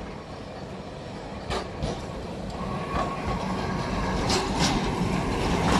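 Milan tram approaching and growing louder, its wheels clacking in pairs over rail joints as it rolls closer.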